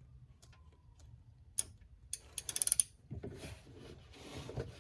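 Ratchet wrench clicking as it loosens the oil drain plug: a few sharp clicks, then a quick run of clicks about two seconds in, followed by rustling and light knocks.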